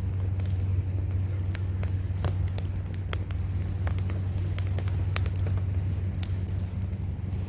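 Wood campfire crackling, with irregular sharp pops and snaps of burning logs over a steady low rumble of surf.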